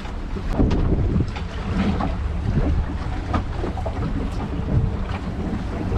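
Small fishing boat's engine running steadily, with wind buffeting the microphone and scattered short knocks and splashes as the hook line is hauled aboard.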